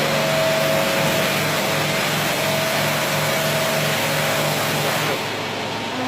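Carpet-washing machine's motor running steadily with a low hum, cutting out about five seconds in and leaving a quieter steady hiss.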